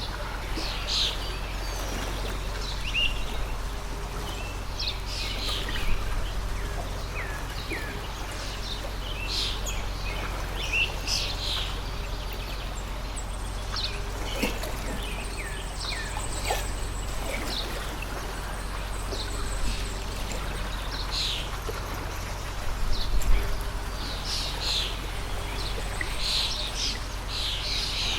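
Small birds chirping in short, often falling calls, scattered throughout over the steady rush of a flowing stream.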